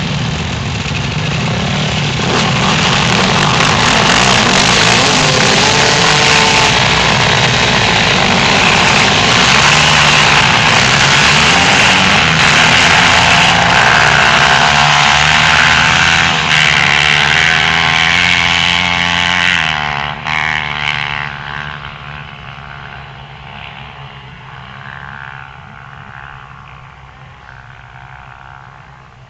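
Several dirt bikes revving and pulling away together, their engines loud and overlapping. About twenty seconds in the noise drops sharply and fades as the bikes ride off into the distance.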